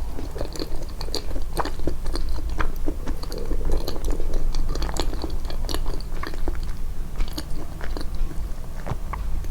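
Close-miked, amplified chewing: irregular wet clicks and crunches of food being bitten and chewed, over a steady low hum.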